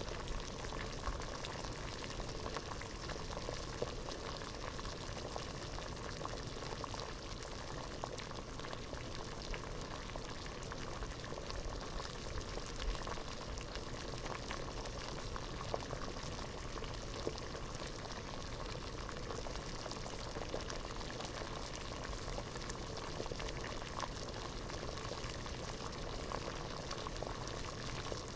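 Pot of water at a rolling boil, bubbling steadily with many small irregular pops.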